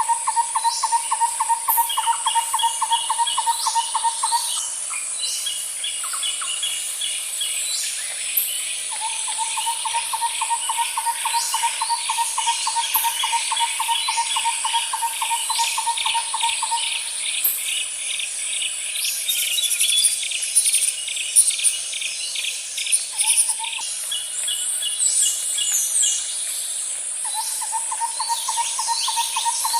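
Nature ambience: a steady high-pitched insect chorus, with a lower, rapidly pulsed trill that runs for several seconds at a time and comes back three or four times, plus scattered short bird chirps.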